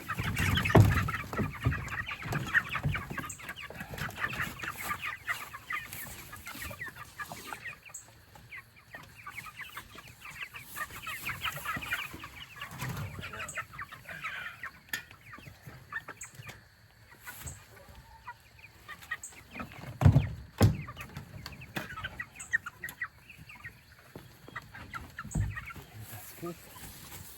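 A flock of meat chickens clucking and peeping, busiest in the first half and sparser later, with a few dull thumps about a second in, around two-thirds of the way through and near the end.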